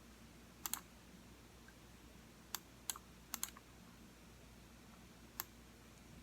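Computer mouse button clicks, sparse and irregular: a quick double click about a second in, a few single and paired clicks in the middle, and one more near the end.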